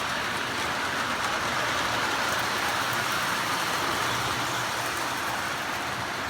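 Model train running on its track: a steady rushing whir of wheels on rails, with a faint low hum underneath.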